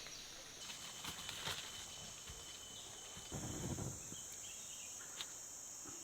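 Steady high-pitched insect chorus that thickens about halfway through, with a few faint knocks and a short rustle near the middle.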